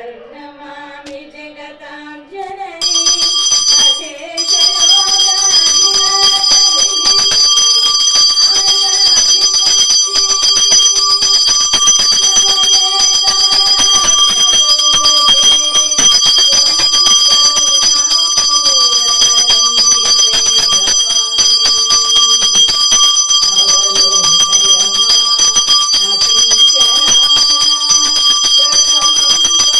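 Brass pooja hand bell rung rapidly and continuously, starting about three seconds in, over a voice singing a devotional chant.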